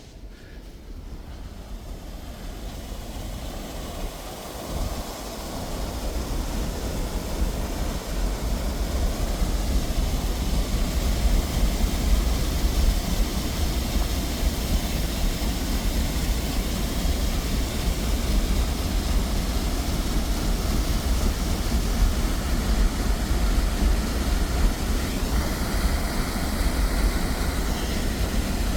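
Steady rushing noise that builds over the first several seconds and then holds, under a low rumble of wind buffeting the microphone.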